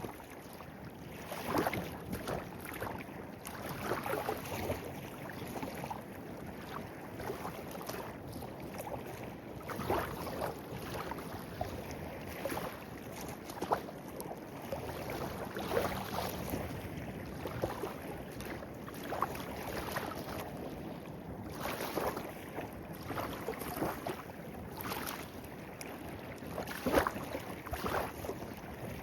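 Stream of running water babbling steadily, with frequent brief splashes and gurgles at irregular intervals.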